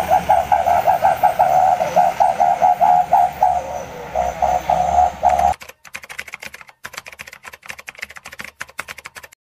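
Truck fitted with a "Srigala" whistle exhaust giving a loud, wavering whistle in quick repeated pulses, the cackling sound likened to a kuntilanak ghost's laugh. It cuts off suddenly about halfway through, and faint rapid ticking follows.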